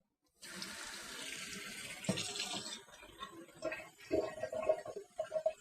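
Water running, as from a tap, starting with a sudden onset about half a second in. After about three seconds the steady rush gives way to uneven splashes and clinks.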